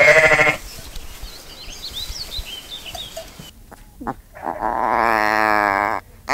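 Animal calls: a short cry right at the start, faint high chirps, then a long cry with a wavering pitch lasting about a second and a half near the end.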